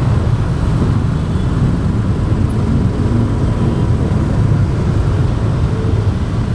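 Steady low rumble of a motorbike ride heard on an action camera's microphone: wind buffeting the mic over the motorbike's engine and tyre noise.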